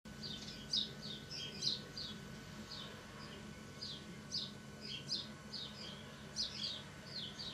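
Small birds chirping: a steady stream of short, high, downward-sliding chirps, several a second, over a low steady hum.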